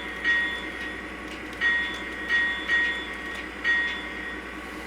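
Model Dash 9 diesel locomotive's sound-system bell played by hand: about five single bell strikes at uneven intervals, each ringing briefly, over a steady low hum from the locomotive's speaker.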